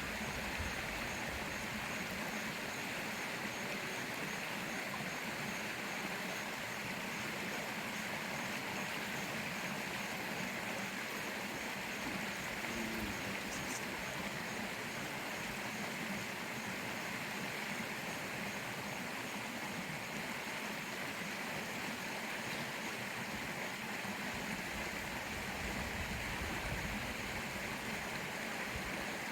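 Steady rush of flowing river water, unbroken throughout.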